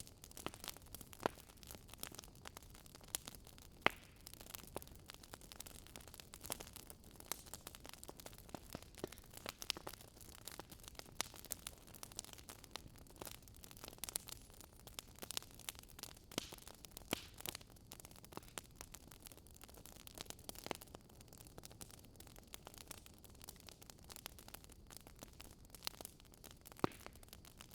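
Wood fire crackling: irregular pops and snaps over a soft, steady hiss.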